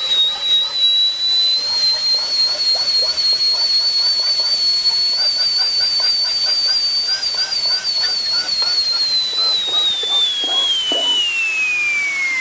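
Electric vacuum-type cleaner motor running with a high-pitched whine that holds steady, wavering slightly, then falls steadily in pitch in the last few seconds as the motor winds down.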